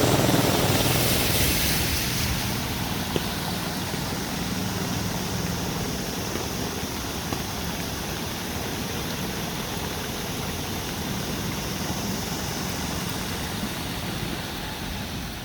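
Heavy rain falling in a steady hiss, with a deeper rumble under it that fades over the first two seconds or so.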